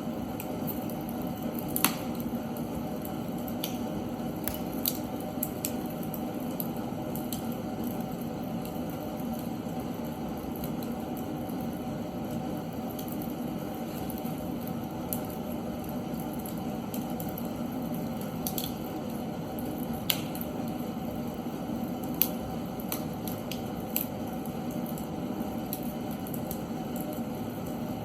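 Seasoned oak logs burning in a fireplace: a steady low rush of flame with sharp crackles and pops at irregular intervals. The loudest pops come about two seconds in and again about three-quarters of the way through.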